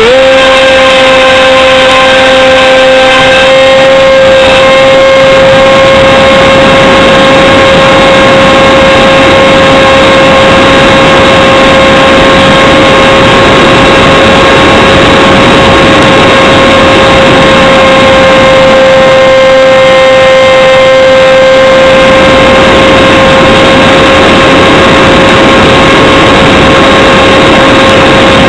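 HobbyKing Radjet 800 RC plane's electric motor and propeller running at a steady, loud, high whine, heard close up from a camera mounted on the plane, with wind rushing over it.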